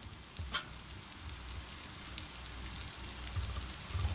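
Mackerel cutlets shallow-frying in oil in a non-stick pan: a faint steady sizzle with scattered small crackles and pops. Two soft low bumps come near the end.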